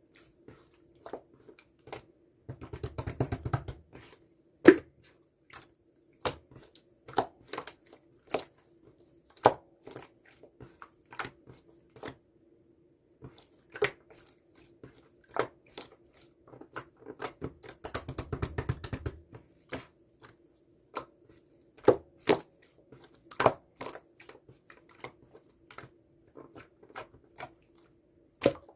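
Teal clear slime being pressed and poked by hand, giving sharp sticky clicks and pops, with two stretches of rapid crackling squishing about three seconds in and again about seventeen seconds in. A faint steady hum runs underneath.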